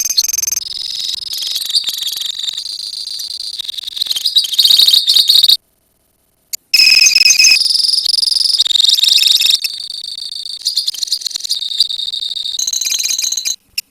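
A colony of lovebirds chirping and trilling in loud, high-pitched, rapid chatter that changes abruptly from passage to passage. It cuts to silence for about a second halfway through, then resumes.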